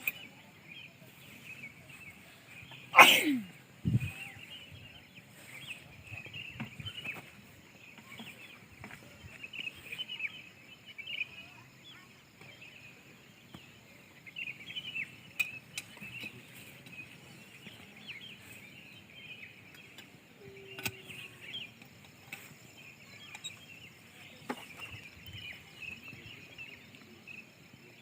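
Rural outdoor ambience: a steady, high-pitched chorus of small chirps with a few scattered clicks. About three seconds in, one loud sound sweeps steeply down in pitch over about a second.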